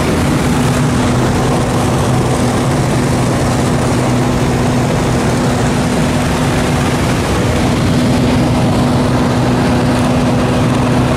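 Propeller-driven aircraft engine running steadily, a loud, even drone with a constant low hum.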